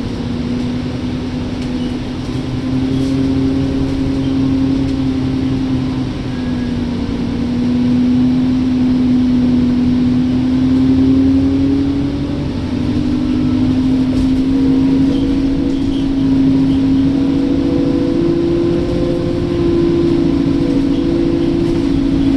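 Alexander Dennis Enviro bus running, a steady low rumble under a prominent whine that slowly rises in pitch.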